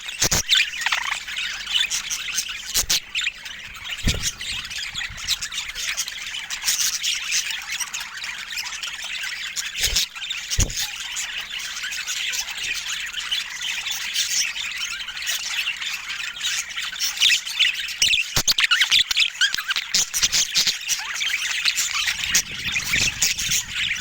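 Budgerigars chattering and chirping nonstop in quick high warbles, louder for a few seconds past the middle, with a few sharp knocks.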